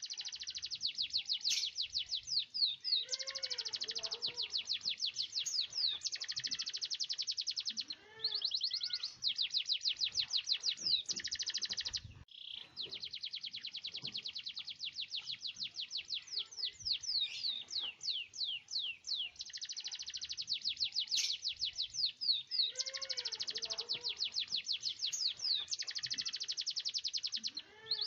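Domestic canary singing long rolling trills of rapidly repeated high notes, broken by brief pauses about eight and twelve seconds in, with a few lower swooping notes between rolls.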